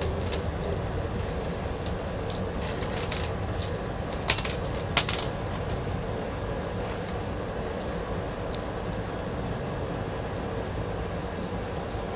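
Small pieces of scrap metal clinking as they are handled and dropped: a handful of sharp, ringing metallic clinks, the loudest about four and five seconds in, over a steady low background.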